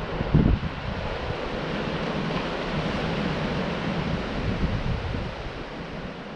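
Surf washing on a beach, with wind buffeting the microphone in low thumps in the first half-second; the wash swells through the middle and eases off near the end.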